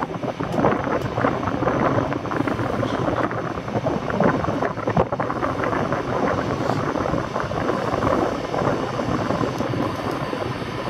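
An EN57 electric multiple unit approaching along the platform, heard as a steady, rough rumble mixed with wind on the microphone.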